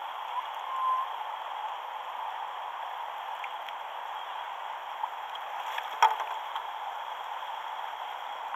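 River water rushing steadily around a kayak, a continuous hiss of moving water, with one sharp knock about six seconds in.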